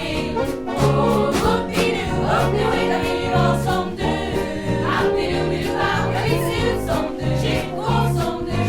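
Choir singing a swing-style pop arrangement in Swedish over a live band accompaniment, with a steady beat and a low bass line moving under the voices.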